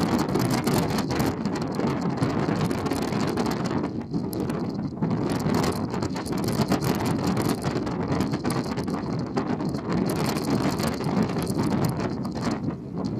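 Wind buffeting the microphone in rapid flutters over a steady low rumble, as aboard a ferry under way.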